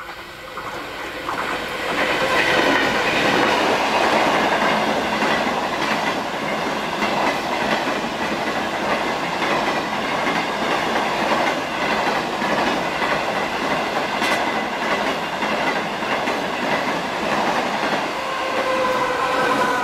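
Diesel-hauled ballast train passing close by. The sound builds over the first couple of seconds as the lead locomotive approaches, then holds as a steady rumble and clatter while a long run of ballast hopper wagons rolls past. Near the end a steady tone comes through as the trailing XRN-class locomotive passes.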